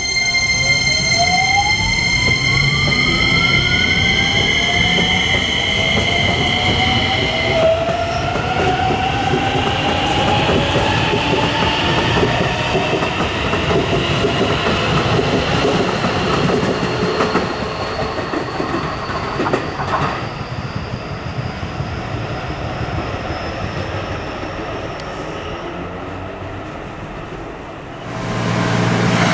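Keisei 3100 series train's Toyo IGBT-VVVF inverter (hybrid SiC) and traction motors accelerating, with rail and wheel rumble underneath. For the first seven or eight seconds it holds a steady chord of tones. Then a rising whine climbs in pitch as the train gathers speed, fading near the end.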